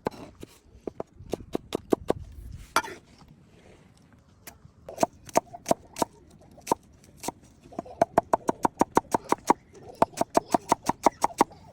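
Eggs being beaten with a fork or whisk in a bowl: quick rhythmic clinks of utensil against bowl, about four or five a second, in runs with a short pause in the middle.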